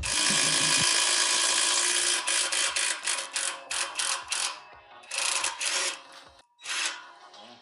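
Handheld power tool running on the exhaust bolts: a steady run of about two seconds, then a string of quick trigger bursts, about three to four a second, and two more short bursts near the end.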